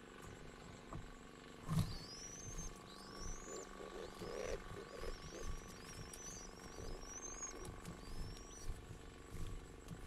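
Thin, high rising bird whistles, repeated about eight times, with soft short patters at the nest partway through.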